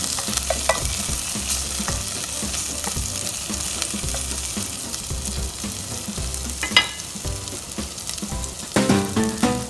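Chopped garlic and green chili sizzling in oil in a metal pot, stirred with a wooden spatula that scrapes and taps against the pot bottom now and then. Music comes in near the end.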